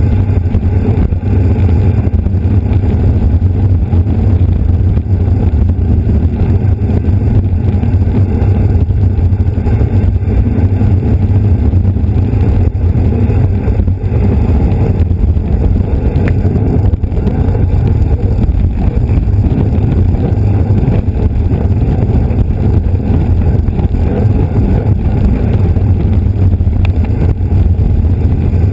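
Wind buffeting the microphone of a camera riding on a racing bicycle: a loud, steady low rumble.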